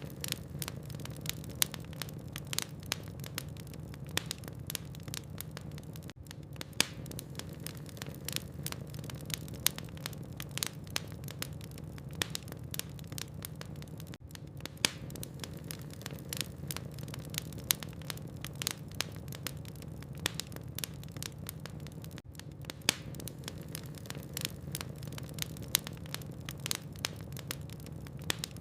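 Wood logs burning in a fireplace, crackling with frequent irregular sharp pops over a steady low hum. The sound drops out for an instant three times.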